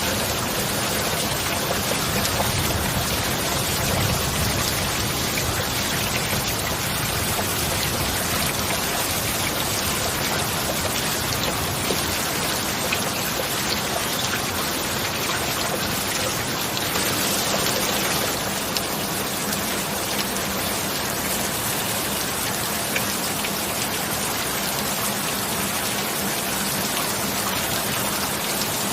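Steady rain falling heavily, a dense, even hiss of drops with no clear thunderclap.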